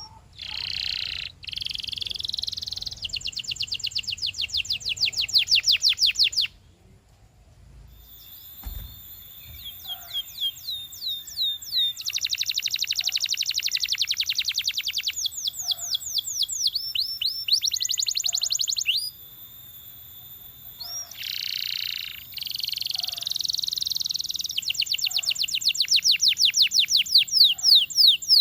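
Domestic canary singing: long rapid trills of repeated notes alternating with fast rising and falling whistled sweeps, broken by a short pause about six seconds in.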